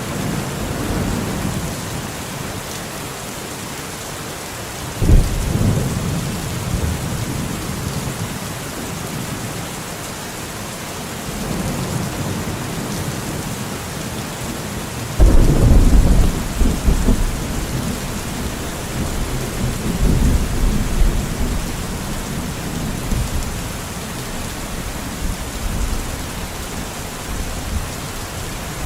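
Steady rain falling in a forest, with thunder: a sudden deep clap about five seconds in and a louder one about fifteen seconds in, each rolling off over a few seconds, and a lighter rumble around twenty seconds in.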